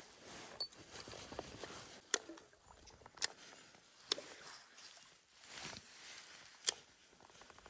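Four sharp clicks, unevenly spaced, over faint rustling.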